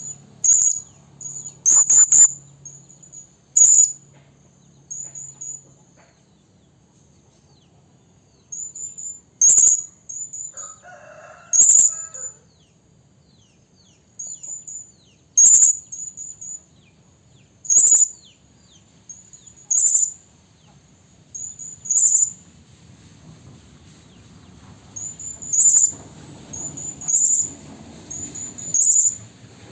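Hanging parrot (serindit) giving short, very high-pitched chirps, singly and in quick clusters every second or two, with a couple of short pauses. It is a female's call used as a lure to bring in males.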